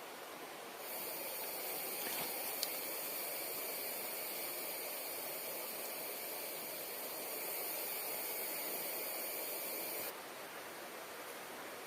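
Steady rushing of a forest stream. A high-pitched buzz made of several steady tones starts about a second in and cuts off suddenly near the end.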